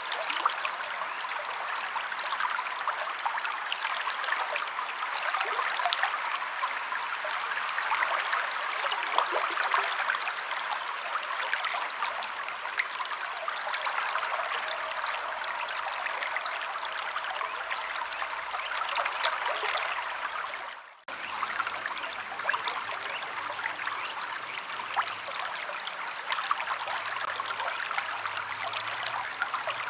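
Stream water flowing and splashing over rocks: a steady rushing with fine trickling and spattering, and faint bird chirps now and then. The sound dips out for a moment about two-thirds of the way through, then carries on.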